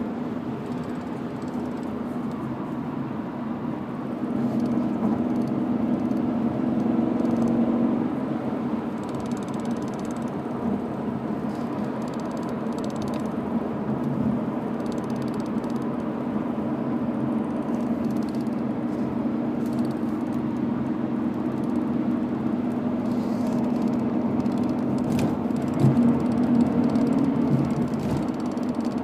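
BMW E39 M5 with its S62 V8 running, and a ticking from the driveline that seems to come from the shifter area.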